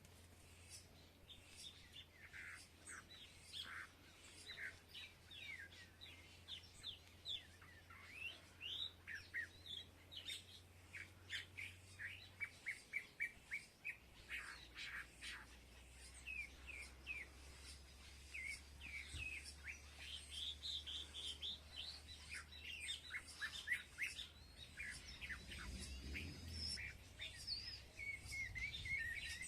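Several small birds chirping and tweeting, with many short calls overlapping throughout and a quick run of evenly spaced chirps around the middle.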